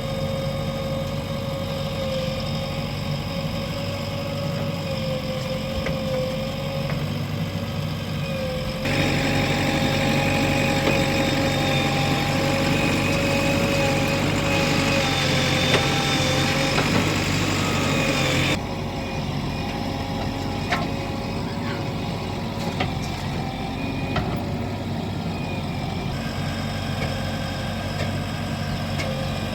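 Diesel engines of a backhoe loader and farm tractors running steadily, with a steady whine over the low engine drone. The sound jumps louder about nine seconds in and drops back suddenly after about another nine seconds.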